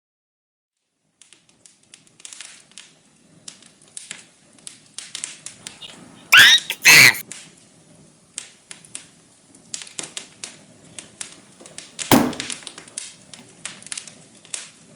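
Many light, irregular taps and clicks of small objects being handled. Two short, loud cries that glide in pitch come about six and a half seconds in, and a loud sharp knock about twelve seconds in.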